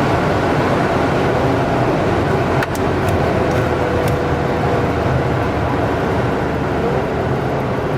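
Mercedes-AMG GLC 43's twin-turbo V6 running steadily at high speed, under a dense rush of road and wind noise. There is a brief dip with a click about two and a half seconds in.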